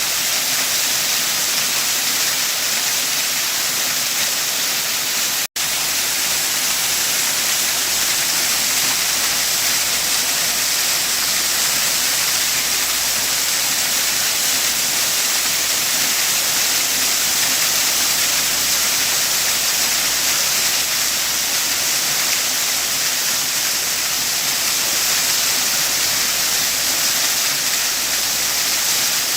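Waterfall rushing in a steady, unbroken roar of water noise, cut off for an instant about five seconds in by a break in the recording.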